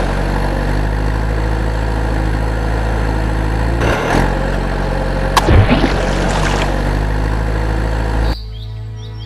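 Truck engine running steadily at idle, with a short loud burst of noise about five and a half seconds in. Near the end it cuts off abruptly and birds chirp.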